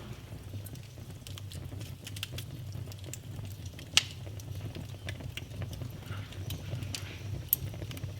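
Wood fire burning in a fireplace: a low steady rumble of flames with scattered crackles and pops, two sharp pops standing out, one about halfway through and one near the end.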